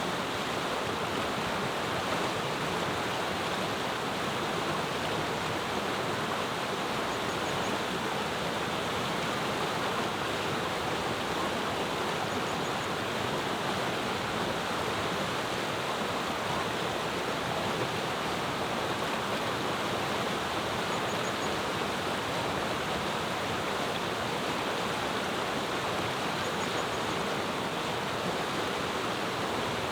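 Clear mountain river rushing steadily over stones, a constant even flow of water. Faint short high bird chirps sound four times above it.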